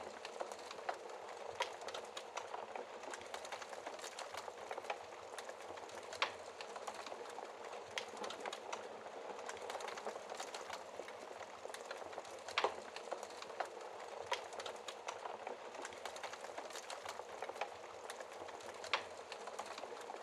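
Wood fire crackling in a fireplace: a steady hiss with frequent small pops and a few louder snaps, about six seconds apart.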